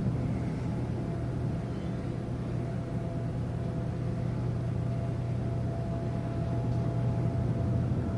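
Cruise ship's machinery rumbling steadily during docking, with a faint steady whine above the low rumble.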